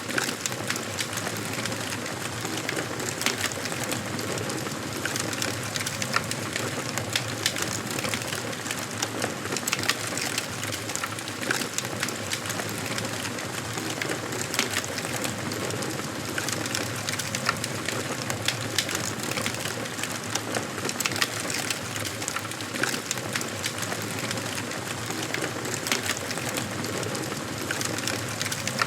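Wood fire burning in a fireplace: a steady rush of flames with frequent, irregular small crackles and pops from the burning logs.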